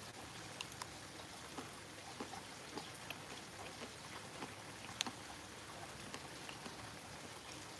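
Faint, close-up eating sounds: scattered small wet clicks and smacks of chewing, with one sharper click about five seconds in.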